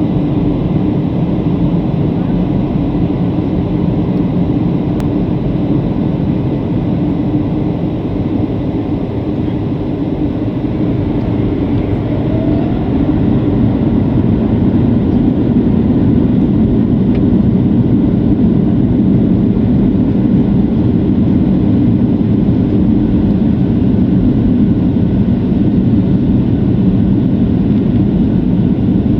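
Steady drone of a Boeing 737-700's CFM56 jet engines and rushing air heard inside the passenger cabin in flight, growing a little louder about 13 seconds in.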